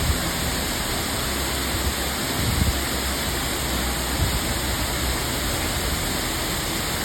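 Waterfall: a steady rush of falling water, with a few brief low thumps in the middle.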